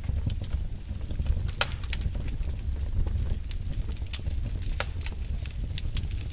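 Wood fire crackling in a fireplace: irregular sharp pops and snaps, a few louder ones standing out, over a steady low rumble of the flames.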